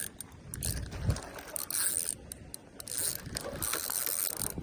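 Fishing reel clicking and whirring as a hooked smallmouth bass is fought on the line: a quick run of light ratchety clicks.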